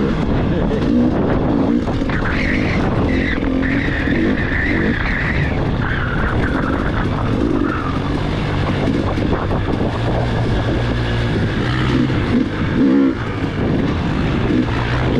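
Dirt bike engine running and revving up and down as the bike is ridden.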